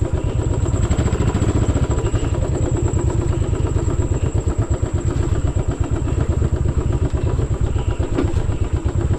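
Royal Enfield motorcycle engine running steadily under way, its firing pulses even and unbroken.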